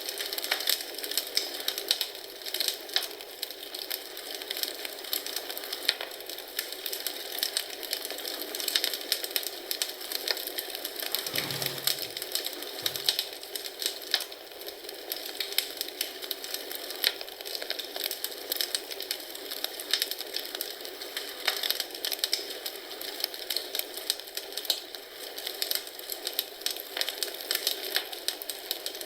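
Wood fire crackling in a fireplace: dense, irregular crackles and pops over a steady hiss, with two brief low thumps near the middle.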